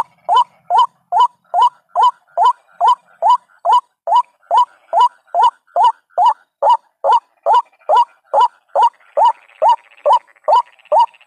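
White-breasted waterhen calls played as a bird-trapping lure: a short rising note repeated steadily, about two and a half times a second.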